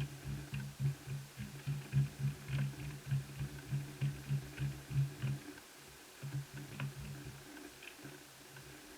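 A low, pulsing hum that stops about five and a half seconds in and comes back briefly a second later, with faint light clicks over it.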